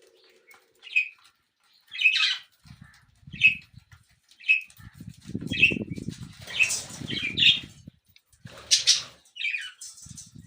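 Pet parrots giving short, high chirping calls about once a second, with bursts of wing-flapping in the middle.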